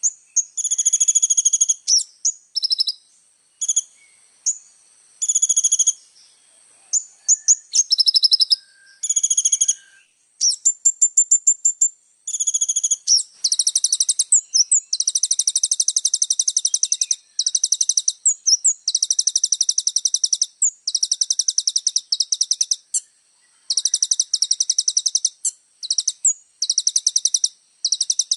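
Kolibri ninja sunbird singing a rapid, high-pitched song. Short, varied phrases come first, then long, fast trills of a second or two each, repeated with brief gaps.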